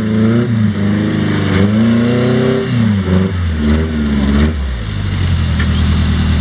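Rock crawler's engine revving up and down in repeated bursts as it works up a rock ledge, then settling to a steadier, lower run about four and a half seconds in.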